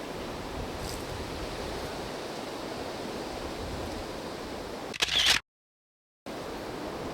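Steady wind noise on the camera microphone. About five seconds in, a short loud clicking clatter of camera handling, then the sound cuts out completely for about a second before the wind noise returns.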